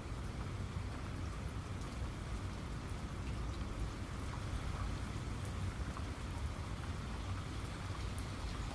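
Steady rain falling, with scattered single drops ticking over an even hiss and a low rumble underneath.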